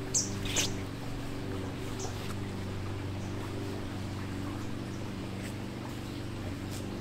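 A few short, high bird chirps, mostly in the first second, over a steady low hum.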